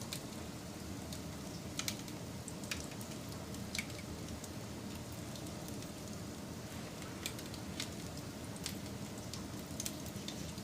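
Wood fire crackling: a steady low rumble with irregular sharp pops and snaps, about one or two a second.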